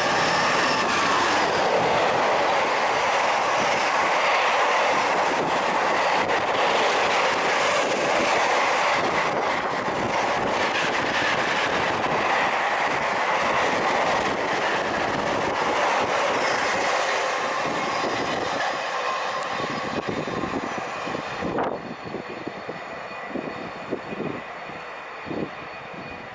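A train passing, with loud, steady wheel-on-rail noise. The noise drops off sharply about 21 seconds in, leaving a few fading wheel clicks.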